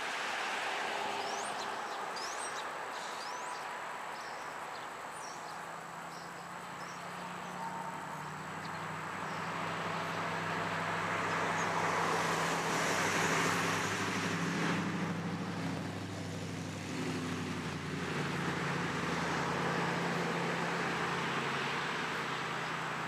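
A motor vehicle's engine hum builds up, peaks about halfway through and eases off, over steady outdoor background noise. A few short high chirps come in the first few seconds.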